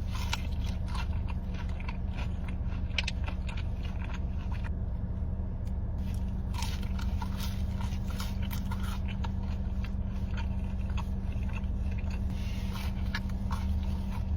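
Close-up crunching bites and chewing of crisp food, many sharp crunches in quick succession with a short pause about five seconds in, over a steady low hum.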